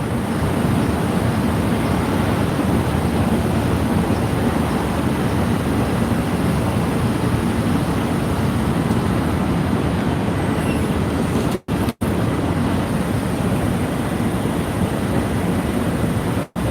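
Steady rumble of street traffic and idling vehicles, with no distinct events; the sound cuts out for an instant twice a little past the middle and once near the end.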